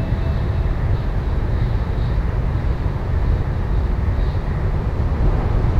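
Cabin running noise inside a JR West 700 series Shinkansen car: a steady low rumble with hiss above it. The last note of the onboard chime melody dies away right at the start.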